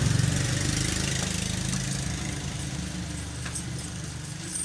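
An engine running steadily, slowly fading away.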